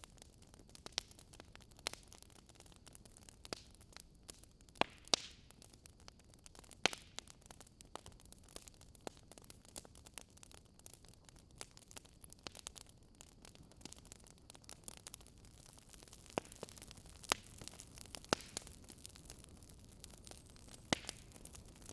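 Wood fire in a fireplace crackling: irregular sharp pops, a second to a few seconds apart, over a soft steady hiss.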